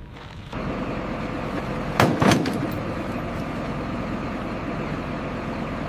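Heavy vehicle engine running steadily, starting abruptly about half a second in, with a couple of loud knocks about two seconds in.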